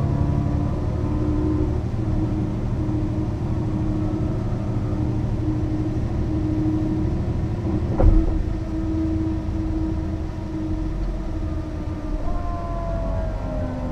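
Mercedes-Benz O 405 NÜ city bus running along, its engine holding a steady tone under road and cabin rumble. A single sharp thump about eight seconds in, and near the end the engine tone shifts.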